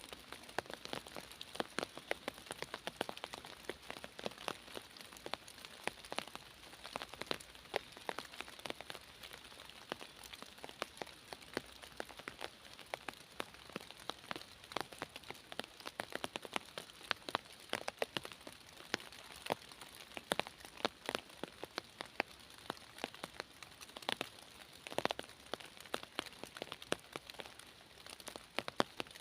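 Rain falling in a forest, with many separate drops striking close by at irregular moments over a steady hiss.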